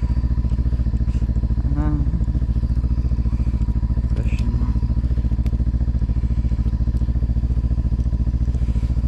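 Snowmobile engine idling steadily, a low, even pulsing drone.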